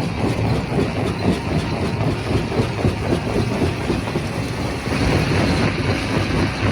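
Primary rock crusher running: a steady heavy drone under a dense, irregular clatter of stone knocking and grinding, a little louder about five seconds in.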